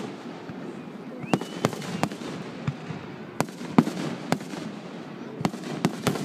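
Fireworks going off: an uneven string of sharp bangs and pops, a dozen or so, over a steady background rumble. A short rising whistle sounds about a second in.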